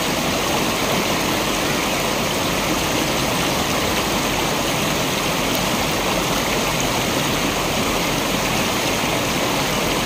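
Waterfall: water falling and rushing steadily, without a break.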